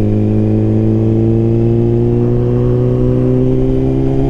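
Suzuki GSX-R1000R's inline-four engine running through a Brocks Performance full exhaust, its loud, deep note rising slowly and steadily in pitch as the bike gathers speed.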